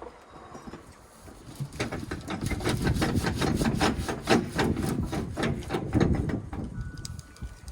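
A quick run of sharp knocking or scraping strokes, about four a second, starting about two seconds in and stopping near the end.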